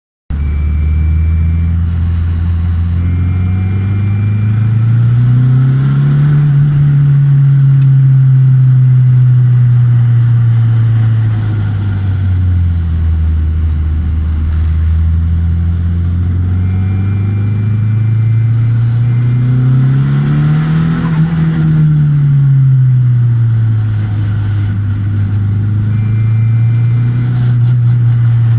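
Nissan 200SX S14's turbocharged four-cylinder engine running, its engine speed rising and falling slowly twice, with a whining noise that the owner is trying to track down.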